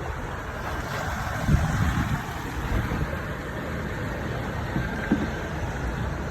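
Steady outdoor wind and water noise with uneven low rumbles, strongest about one and a half seconds in.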